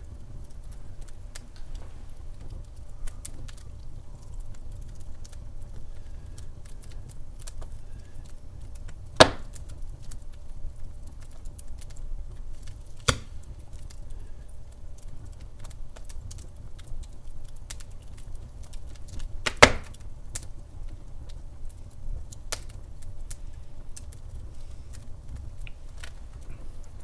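Wood fire crackling in a fireplace: a low steady rumble under scattered small crackles, with three sharper pops spread through.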